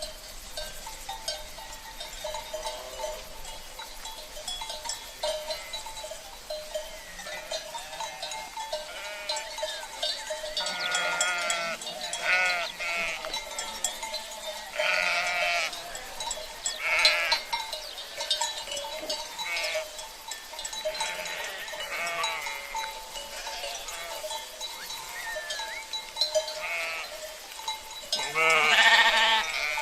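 A flock of sheep bleating over and over, many overlapping calls, the loudest one near the end, with cowbells ringing steadily underneath.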